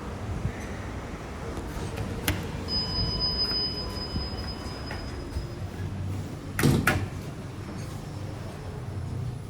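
Otis GeN2-Regen lift's sliding doors working, with a steady electronic tone held for about three seconds and a sharp double knock a little past the middle.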